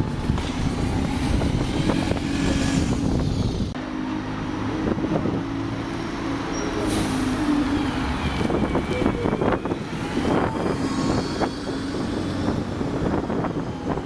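Diesel bus engines running with road traffic noise and scattered knocks, and a short hiss about seven seconds in.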